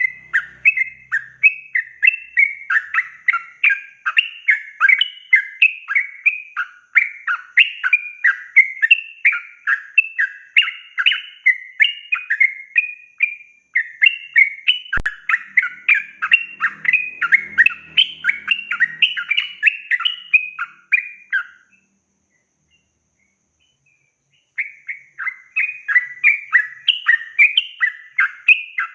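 Yellow-vented bulbul (trucukan) singing a long, fast, unbroken run of chattering notes, a few a second. It breaks off abruptly for about three seconds before the end, then starts again.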